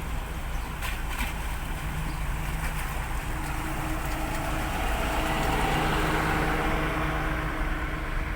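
An engine running steadily, growing a little louder past the middle.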